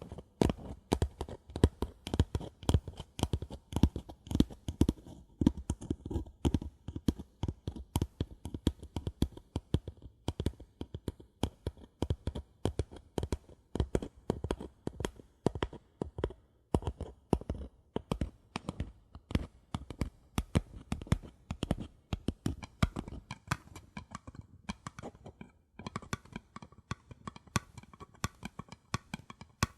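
Fingers tapping quickly on paper cups, several light taps a second. About three-quarters of the way through the taps turn brighter in tone, with a brief pause just before.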